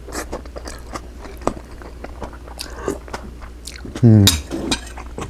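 Close-miked chewing and mouth smacks of a person eating pan-fried cod and tofu. About four seconds in there is a short voiced hum that falls in pitch.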